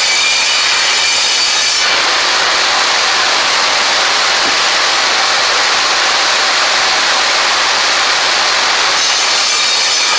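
A woodworking power tool running with a steady motor whine. From about two seconds in to about nine seconds, the sound grows fuller and rougher as a board is fed through and cut, then drops back to the free-running whine.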